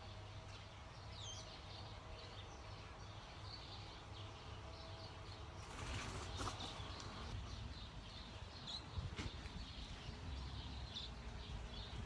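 Small birds chirping faintly in short high calls, with a brief flurry of wingbeats about six seconds in as a bird takes off from around the hanging feeders.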